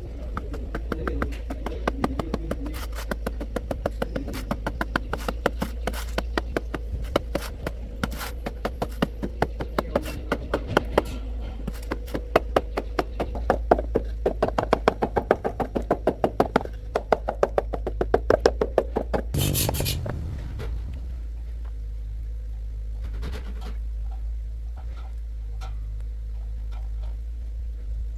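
Rapid, even knocking at about five strokes a second, stopping about two-thirds of the way in with a short burst of noise, over a steady low hum.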